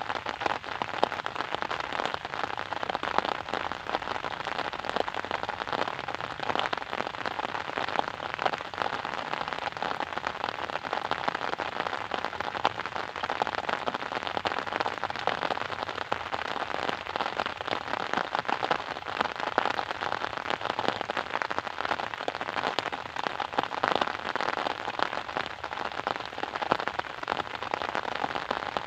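Steady rain falling, a dense even hiss with many individual drops ticking sharply close by.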